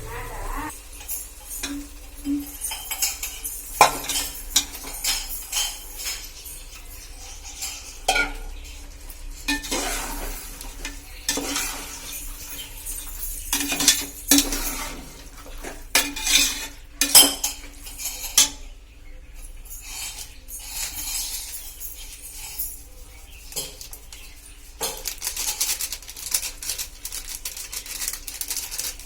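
A metal spoon or ladle stirring in a cooking pot, scraping and clinking against the metal in irregular strokes, with a light sizzle of frying underneath.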